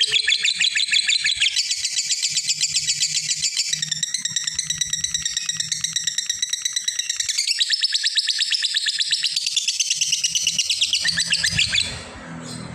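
Lovebird giving a long ngekek: a very rapid, high-pitched chattering trill held without a break, stopping abruptly near the end.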